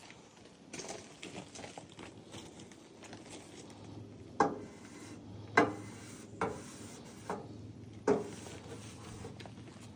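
Light ticks and scrapes, then five sharp knocks on thin metal at irregular intervals in the second half, each with a brief ring.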